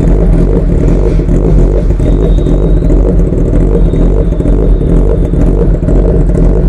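Motorcycle engine running loudly and steadily close by, with an even low rumble.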